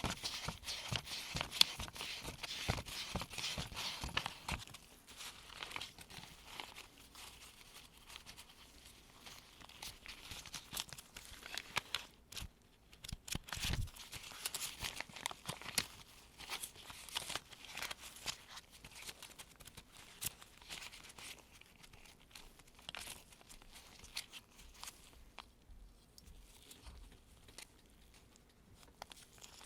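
Gloved fingers sifting through a pile of US one-dollar paper bills: dense crinkling and rustling of the paper. It is busiest in the first few seconds and pauses briefly about twelve seconds in.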